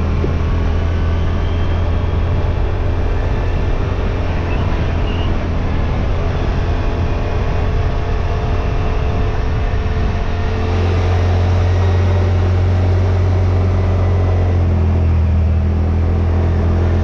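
Side-by-side UTV engine and drivetrain running steadily under way, a constant low drone that grows a little stronger and steadier about ten seconds in.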